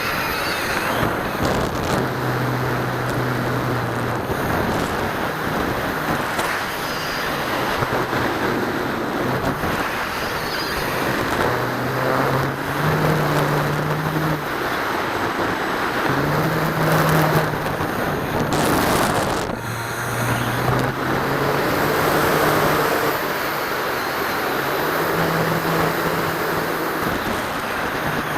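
Rushing airflow noise on a camera mounted on the tail of a Dynam C-47 RC airplane in flight, with the low hum of its twin electric motors and propellers stepping up and down in pitch every few seconds.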